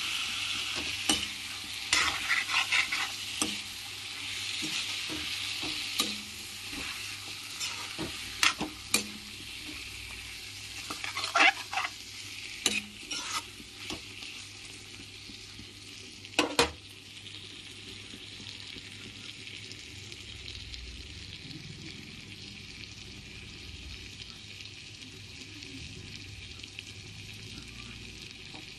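Chicken pieces in masala sizzling in a metal wok while a steel spoon stirs and scrapes against the pan, with sharp clinks and scrapes through about the first half. After that the sizzling goes on steady with little or no stirring.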